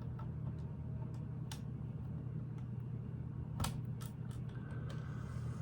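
A few sharp clicks of small plastic Lego pieces being handled and pressed into place, over a steady low hum.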